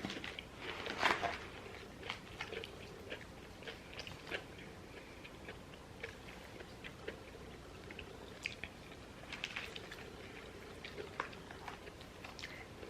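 Close-miked eating: chewing and biting with small wet clicks and crackles scattered irregularly, the loudest about a second in and around four and eight to nine seconds in.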